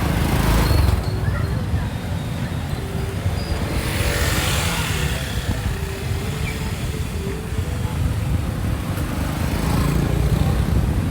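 Street traffic: motorbike engines running with a steady low rumble, swelling twice as vehicles pass close.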